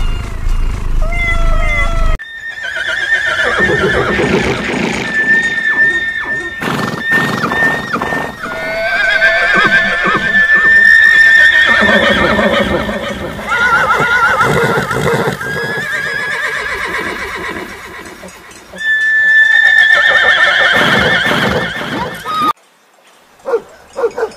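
Horses neighing and whinnying over and over, high trembling calls that waver in pitch. A kitten meows a few times in the first two seconds.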